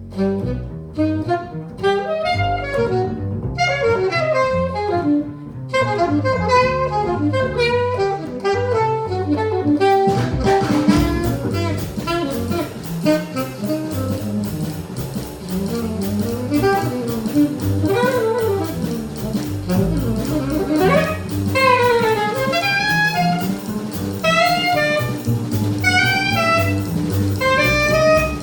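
Small jazz band playing live: alto saxophone and trumpet over piano, double bass and drum kit. For about the first ten seconds the melody plays without drums, then the drums come in with steady cymbals and the horns play bebop lines.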